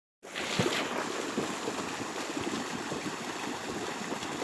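Feet splashing irregularly through water over a steady rushing of water and wind noise, as runners train by running in water.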